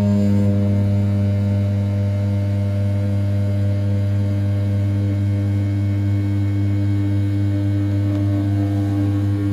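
CNC milling machine's 500 W brushless spindle turning at 6000 rpm while its end mill rough-cuts the outer profile of a 7075 aluminium part: a steady machine hum. A slightly louder, higher tone joins right at the start and then holds steady.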